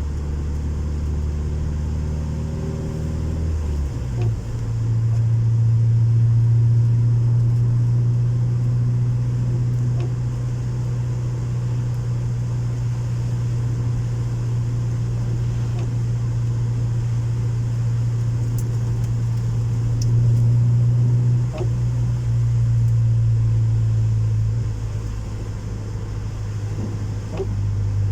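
Honda Civic 1.4i S four-cylinder engine running through a custom-made exhaust with a steady low drone. It steps up to a higher, louder note about four seconds in, holds there for most of the time, and eases back down near the end.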